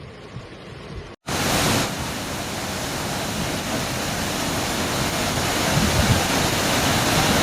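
A loud, steady rush of storm water. It cuts in abruptly after a quieter stretch about a second in and slowly grows louder.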